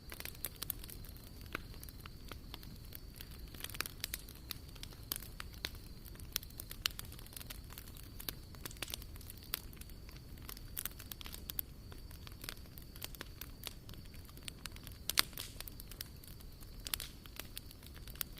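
Wood fire burning in a fire pit, crackling with irregular sharp pops, a few of them louder than the rest.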